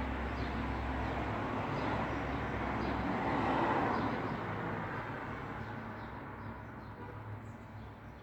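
Road traffic: a passing vehicle's noise swells to a peak about three and a half seconds in, then fades away.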